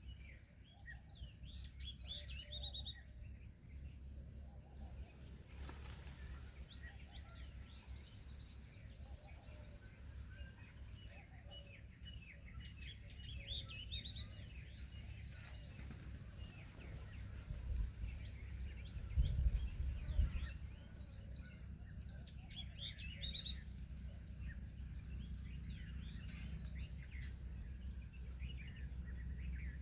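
Small birds chirping in repeated quick flurries over a steady low rumble, with a few louder low bumps about two-thirds of the way through.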